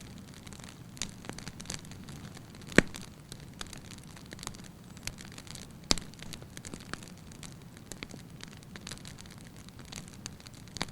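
Wood fire crackling in a fireplace: a steady low hiss of burning logs with scattered sharp pops and snaps, two of them much louder, about three seconds in and about six seconds in.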